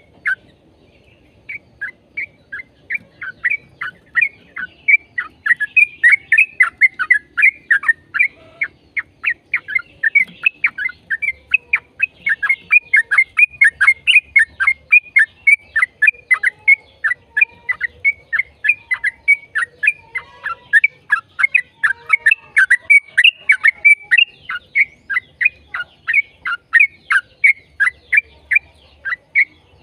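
Yellow-vented bulbul (trucukan) singing a long, rapid-fire song of short, bright notes, about three a second, running on without a break.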